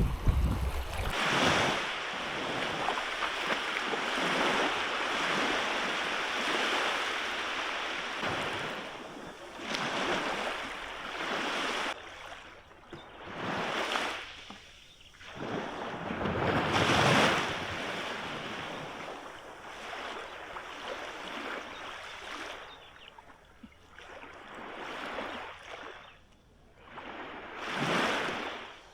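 Waves washing in, swelling and fading in surges every few seconds, one louder surge about two-thirds of the way through.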